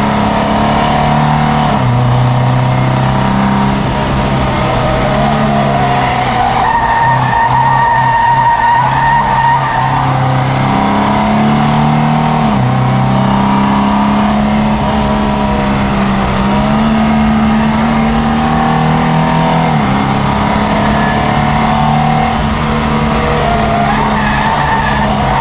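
Triumph Dolomite Sprint's slant-four engine pulling hard under load, heard from inside the cabin. Its pitch climbs through each gear and drops several times at the gearchanges.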